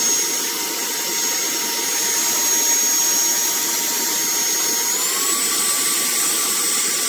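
Cordless handheld car vacuum running: a steady motor whine over an airflow hiss. About five seconds in, the whine steps up in pitch as it is switched to its second, stronger speed.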